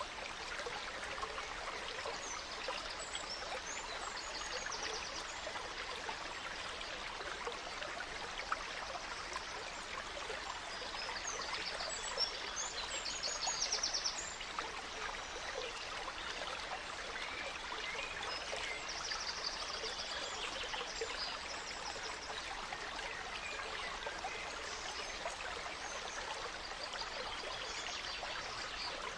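Gentle stream running steadily, with songbirds calling and singing over it at intervals, including a quick trill about halfway through.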